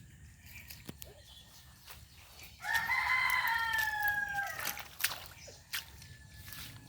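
A rooster crowing once: a single drawn-out call of about two seconds, starting a little before the middle and falling slightly in pitch at its end.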